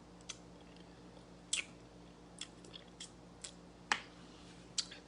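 Wet mouth smacks and clicks of someone chewing stewed salmon fish head meat, about eight short, scattered sounds, faint.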